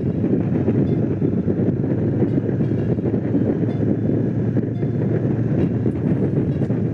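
Honda CX500 V-twin engine running steadily on the move, mixed with wind rushing over the microphone.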